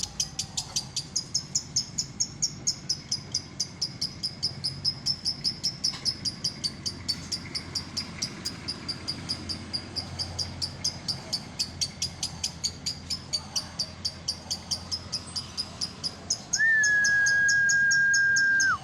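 Lovebird ngekek: a long, unbroken run of rapid, high chirping notes, about five or six a second. Near the end a loud, steady whistle-like tone is held for about two seconds over it.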